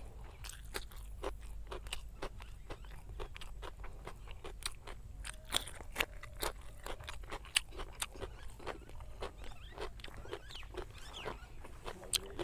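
Close-miked chewing of cucumber slices and pork biryani: many sharp, wet crunches and mouth clicks in quick, irregular succession.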